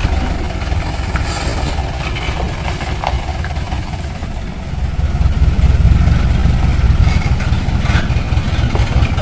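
Mitsubishi Fuso Canter dump truck's diesel engine running steadily, growing louder about five seconds in.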